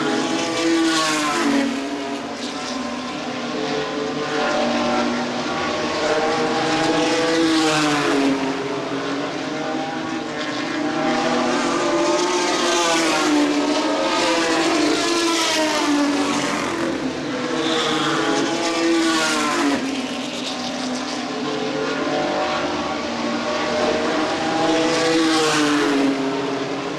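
A field of ARCA Truck Series race trucks running laps under green on a paved oval. Several engines rise in pitch, then drop and rise again, over and over as the trucks pass.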